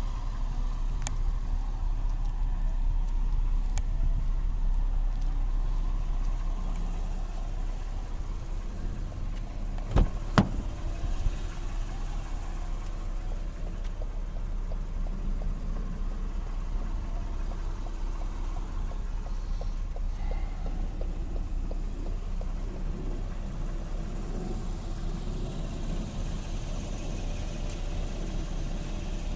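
Steady low rumble of a 2013 Lexus GS F-Sport idling. Two sharp clicks come about ten seconds in, with a fainter one just after.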